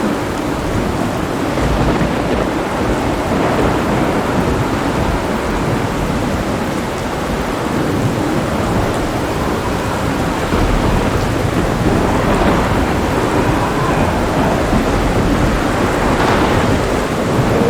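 Thunderstorm: steady heavy rain with low rolling thunder rumbling continuously underneath, swelling a little near the end.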